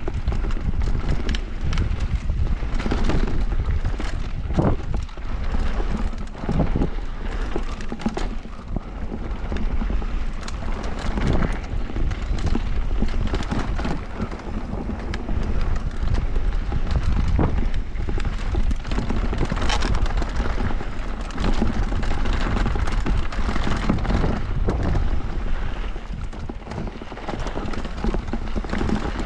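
Electric mountain bike descending a rough downhill trail: tyres on dirt with frequent rattling knocks as the bike hits bumps, under steady wind noise on the microphone.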